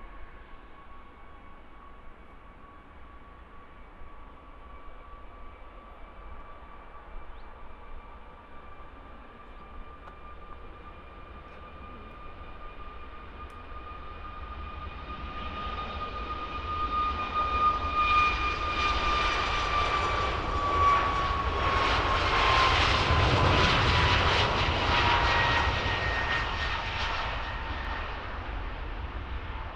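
Jet airliner passing close by: its engines' whine and rush build over about fifteen seconds to a peak, then the whine drops in pitch as the aircraft goes past and the sound fades.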